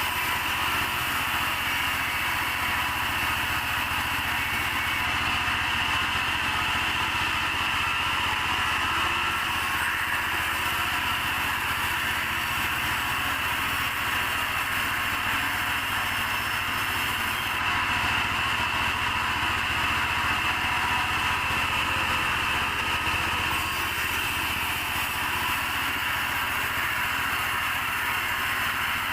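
Engine-driven sawmill saw running steadily while sawing mahogany into beams: a constant machine hum with a high, even whine over it and no stops.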